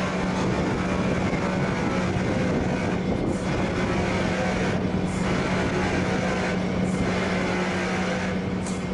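Steady machinery hum around a Boeing 777-300 on the ground, with a constant low tone throughout.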